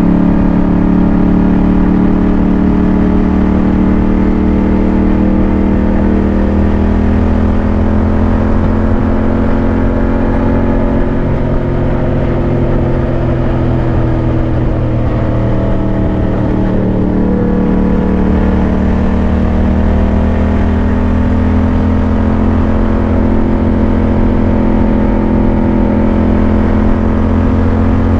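Yamaha MT-07's parallel-twin engine running steadily under way, heard from the rider's position. Its note eases down a little about halfway through and picks back up a few seconds later.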